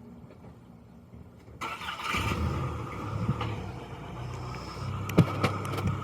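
A mail delivery truck's engine and tyres come up about a second and a half in as it drives nearer, with a steady low engine hum, and a sharp click near the end.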